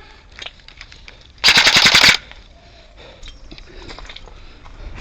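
Airsoft gun firing one short full-auto burst: a loud, rapid rattle of shots lasting under a second, about one and a half seconds in.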